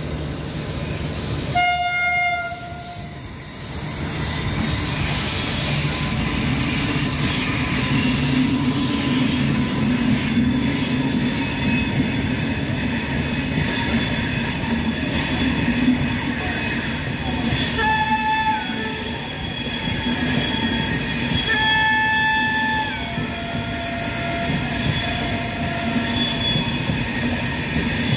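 Passenger train passing close by: a horn blast about two seconds in, then the steady noise of the coaches rolling past on the rails. Two short high-pitched tones sound later, near the two-thirds mark.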